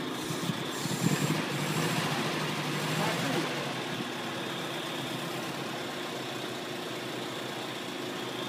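Triumph Roadster's four-cylinder engine idling steadily, briefly louder for a couple of seconds about a second in.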